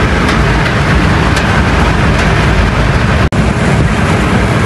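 Heavy rain pouring on a car's roof and windshield, heard inside the cabin as a dense, steady hiss. It cuts out for an instant about three seconds in.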